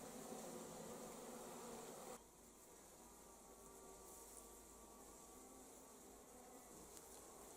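Honeybees buzzing: a faint, steady hum of several overlapping pitches. It drops abruptly quieter a little over two seconds in.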